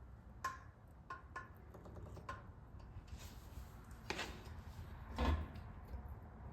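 Small steel axle parts clinking against each other: four light ringing clinks in the first couple of seconds, then two heavier metallic knocks, the second the loudest, as the pinion bearing, washer and nut are handled and fitted onto the pinion.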